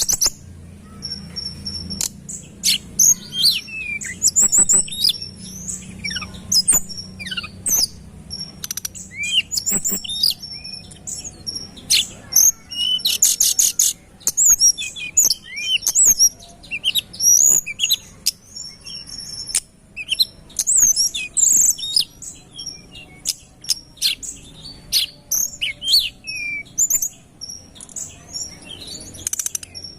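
Tledekan gunung songbird singing a fast, dense string of sharp chirps, short whistles and trills with hardly a pause, the busy 'gacor' song used as a master recording for training cage birds.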